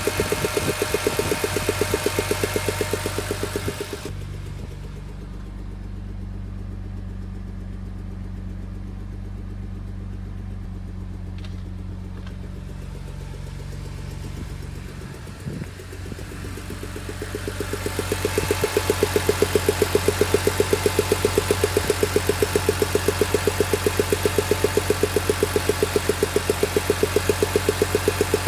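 BMW E46 M3's S54 straight-six engine running at a steady idle with a fast, regular ticking: the strange engine noise under investigation. From about four seconds in the sound goes muffled, leaving only a low hum, and the ticking fades back in a few seconds before the end.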